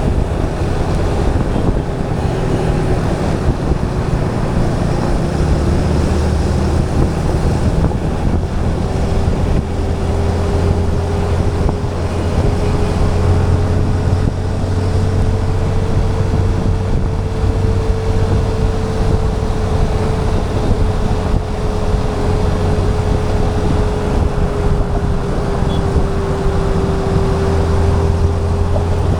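Yamaha FZ 2.0 motorcycle's single-cylinder engine running at a steady cruise, with a steady whine that drifts slightly in pitch and wind buffeting the camera's microphone.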